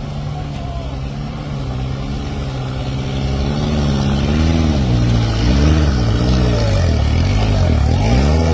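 Truck engine under load on a steep climb. It runs steadily at first, then grows louder and revs up and down about once a second, five times over, in the second half.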